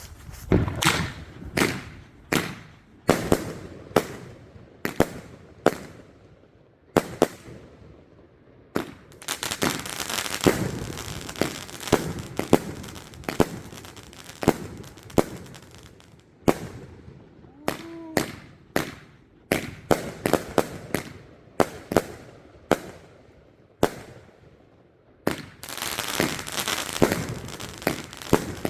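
"Beware of Dog" firework going off: a run of sharp bangs at irregular spacing, with two stretches of dense crackling, one about a third of the way in and one near the end.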